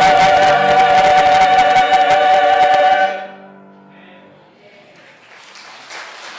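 Church choir holding the final chord of a Christmas cantata hymn, cut off about three seconds in, with the hall ringing briefly afterward. Applause starts to build near the end.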